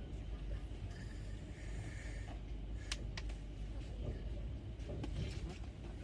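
Passenger train running: a steady low rumble with a few sharp clicks, one loud click about three seconds in.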